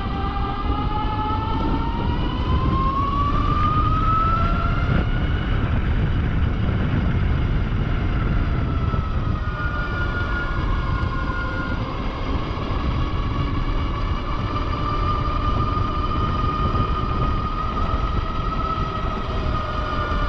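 UBCO electric motorbike's hub motors whining under way, the whine rising in pitch over the first five seconds as the bike gathers speed, then settling and holding fairly steady. A loud low rumble of wind noise runs underneath.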